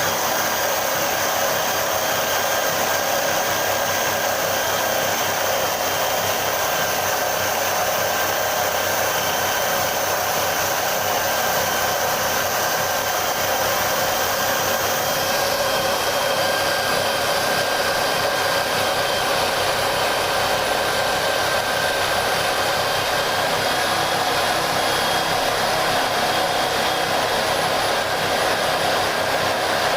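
Small electric motor of a homemade wood-sanding machine running steadily with an even whir. The high part of the sound shifts slightly about halfway through.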